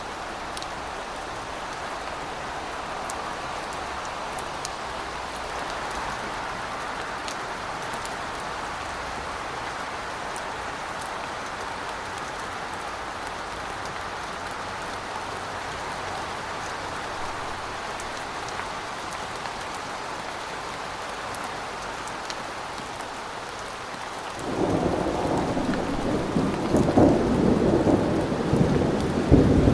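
Steady rain hissing, then near the end a loud rumble of thunder sets in suddenly and swells.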